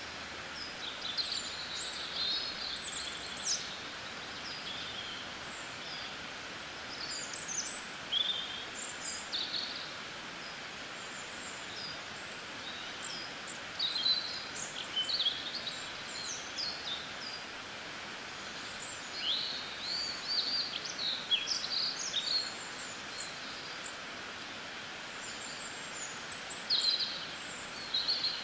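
Small birds chirping in short, quick calls that come and go in clusters, over a steady background hiss.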